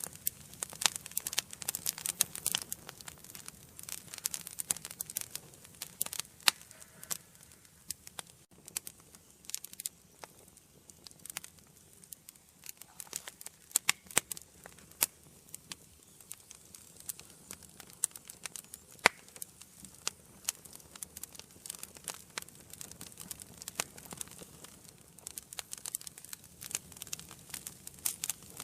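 Wood fire crackling in a fireplace: irregular sharp pops and snaps over a faint hiss of the flames, thicker in the first few seconds and again near the end, with a few single louder pops.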